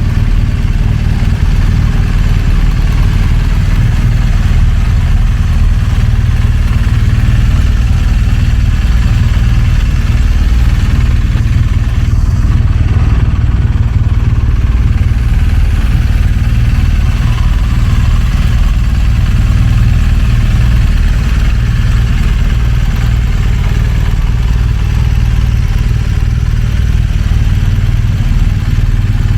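BMW R1200GS flat-twin boxer engine idling steadily, heard through its exhaust.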